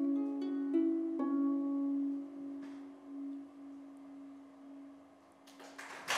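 Concert harp plucking the closing notes of a song. The last note, about a second in, is left ringing and dies away slowly. The first scattered claps of applause come in near the end.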